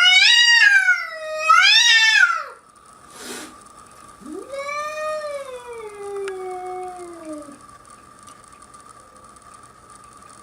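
Domestic cat caterwauling: two loud, drawn-out yowls rising and falling in pitch, then a longer, quieter yowl that slides down in pitch.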